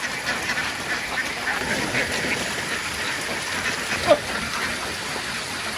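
A flock of ducks quacking, many short calls overlapping without a break, with one louder call about four seconds in.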